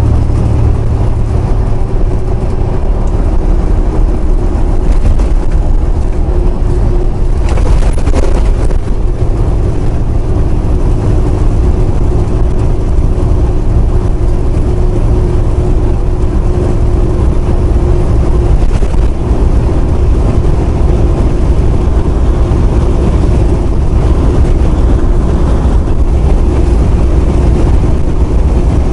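Semi truck driving at highway speed, heard from inside the cab: a steady low engine drone with road noise, and a brief louder rush about eight seconds in.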